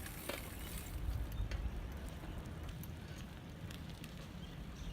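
Wind noise on the microphone: a steady low rumble with hiss and a few faint clicks.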